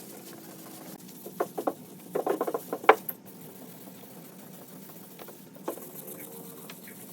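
Light tapping and clicking, a quick cluster of small knocks about one to three seconds in and a single click later, over a faint steady hum.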